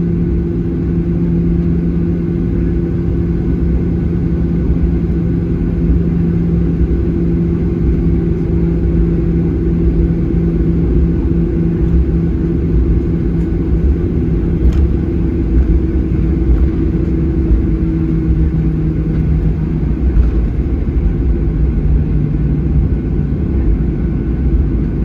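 Cabin noise of a Boeing 737-800 taxiing, its CFM56 turbofans running near idle: a steady low rumble with a constant hum that fades away about three-quarters of the way through.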